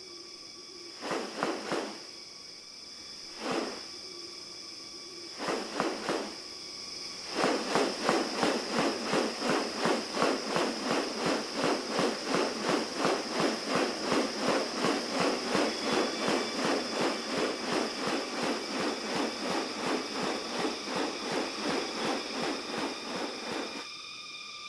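Rainforest sounds: a steady high insect drone, a few short separate calls, then from about seven seconds a loud, even pulsing, about two to three pulses a second, that stops just before the end.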